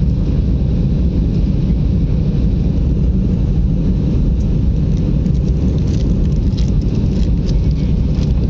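Steady low rumble of airplane cabin noise in flight, heard from inside the plane.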